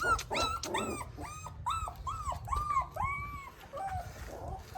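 Puppy whining: a quick run of about ten short, high whimpers, one drawn out a little longer about three seconds in.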